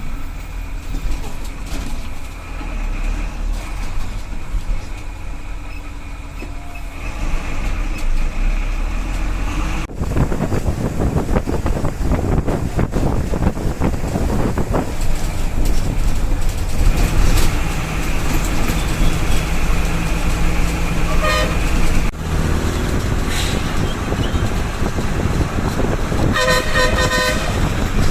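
Road traffic: vehicle engines running with horns honking, a short toot about three-quarters of the way through and a rapid run of short horn toots near the end.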